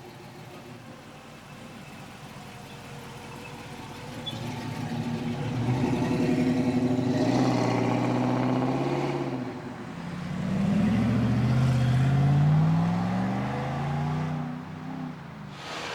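Car engine and exhaust pulling away hard: a low idle-like hum for about four seconds, then the revs build loudly, dip briefly about nine and a half seconds in, and climb steeply in pitch again before falling away near the end.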